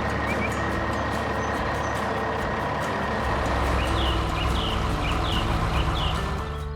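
Heavy truck engine running steadily, with four short high chirps about two-thirds of the way through.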